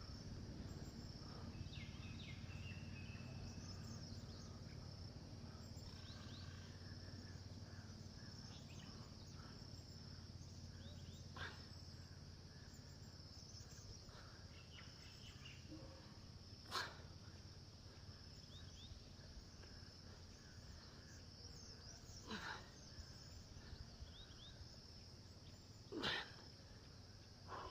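Faint steady insect chorus, a continuous high trill like crickets, over a low background hum, broken by four short sharp knocks spread through the stretch.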